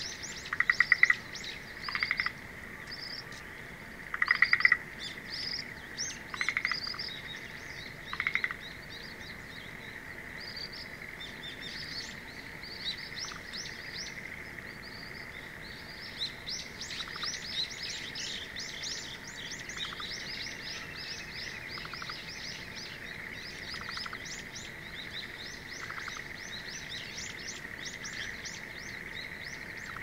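Birds chirping outdoors: loud groups of short repeated notes in the first eight seconds, then a dense run of quick high chirps from about twelve to twenty seconds in, over a steady high background tone.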